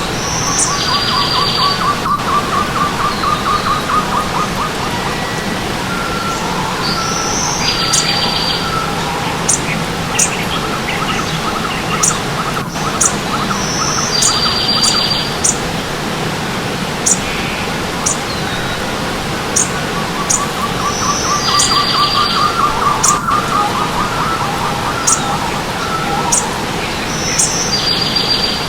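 Birds chirping and trilling over the steady rush of running stream water. The same group of calls, high short chirps, a buzzy call and a lower trill, comes back about every seven seconds.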